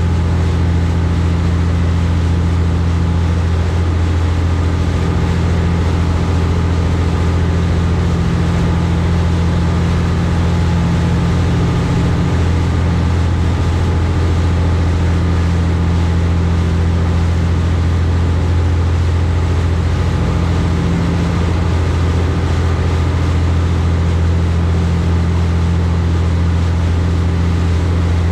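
High-speed passenger boat's engines running at a steady cruise: a deep, unchanging drone with steady tones above it.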